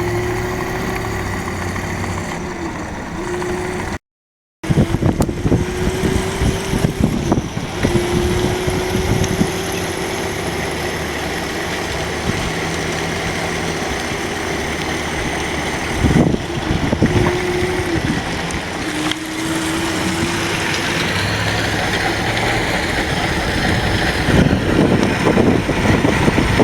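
Electric motor whine of 36-volt electric mini motorcycles riding, a steady tone that climbs slightly and holds, breaking off and returning a few times as the throttle eases, over low rumbling noise. A brief cut to silence about four seconds in.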